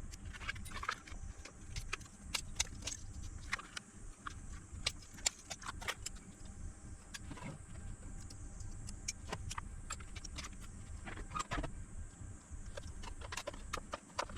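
Irregular small metallic clicks and taps of hands working on a lithium battery pack with tools and metal parts, over a steady low hum.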